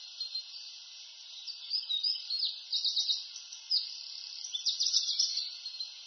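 A songbird singing two phrases of quick, high notes and rapid trilled strokes, the second near the end, over a steady high background hiss.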